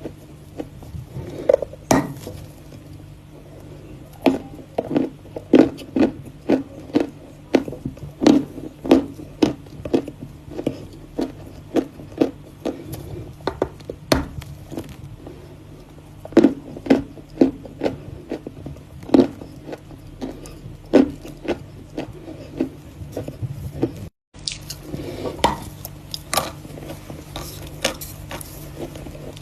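Close-miked crunching and crackling of hard chalk being bitten and chewed, sharp crunches about one or two a second with smaller crackles between, broken by a split-second gap near the end.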